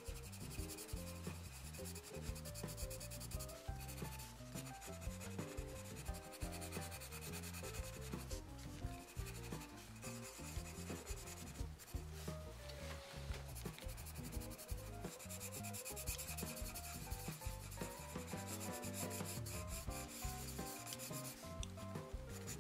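Black colouring pencil shading back and forth on drawing paper in fast, continuous scratchy strokes, filling in an area solid black. Soft background music plays underneath.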